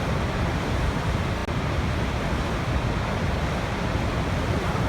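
Waterfall: a steady, full rush of falling water, heaviest in the low end, with a momentary dropout about one and a half seconds in.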